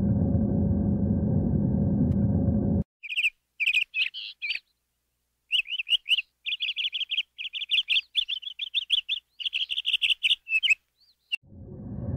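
Steady low rumble that cuts off about three seconds in. A bird then chirps in quick runs of short, high, clear notes, several a second, with brief gaps. The low rumble fades back in near the end.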